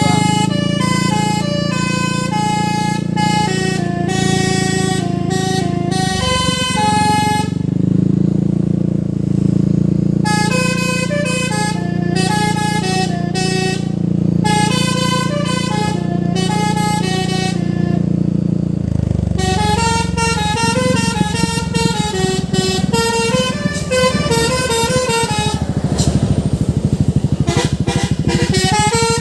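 A truck's basuri musical air horn playing a tune of stepped, sustained notes, with short breaks, over the steady rumble of the truck engine. The engine sound turns coarser about two-thirds of the way through.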